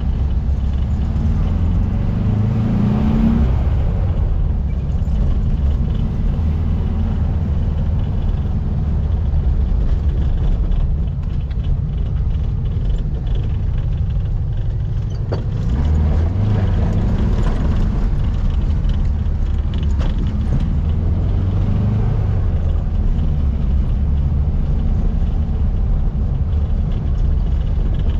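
Volkswagen Baja Bug's air-cooled 1700cc flat-four engine running steadily with a deep rumble while the car is driven. It revs up about three seconds in, and again past the middle and a little later.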